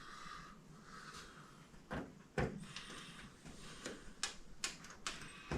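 Scattered light clicks and knocks of small parts being handled, as cab marker light connectors are plugged in and fitted; about half a dozen sharp clicks from two seconds in, over a faint hiss.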